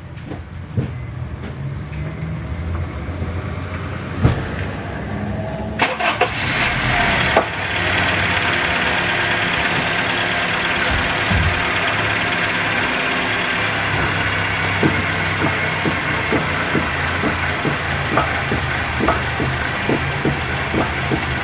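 A car engine running low at first, then from about six seconds in a louder steady noise as the car gets under way. In the second half, short clunks come roughly once a second: a failing Raceland coilover strut knocking.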